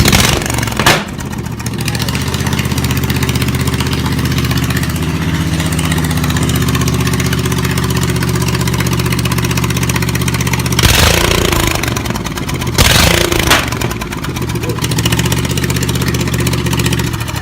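The straight-piped 23 hp Briggs & Stratton V-twin of a Snapper SPX lawn tractor, just started and running loud and steady through open exhaust pipes, with two louder bursts about two-thirds of the way in.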